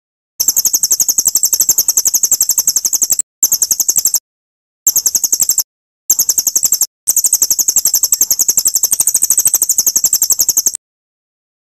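High-pitched rapid songbird trill of evenly repeated notes, about ten a second, played as a bird-song tutor recording. It comes in five long runs broken by short gaps and stops abruptly near the end.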